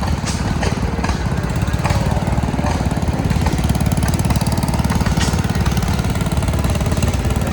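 Tractor engine running close by with a steady, rapid chugging of exhaust pulses. A few short sharp clicks are heard over it.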